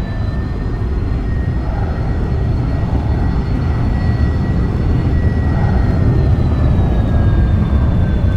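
Boeing 787-9 Dreamliner's jet engines at takeoff power: a loud, deep rumble with a high whine on top that drops in pitch after about six seconds.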